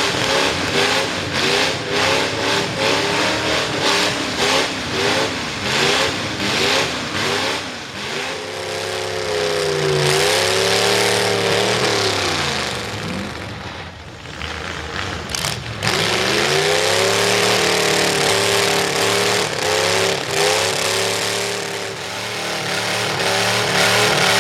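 V8 engine of a Ford mud truck, open through upright headers, revving hard. Quick repeated throttle blips come first, then long swells of revs that rise and fall, with a brief easing off about halfway through and a falling note near the end.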